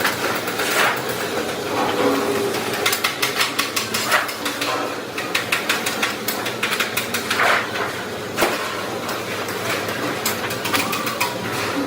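Sheet-steel metalworking in a workshop: repeated sharp metallic taps and clanks, bunching into a fast run of taps in the middle, over a steady background noise.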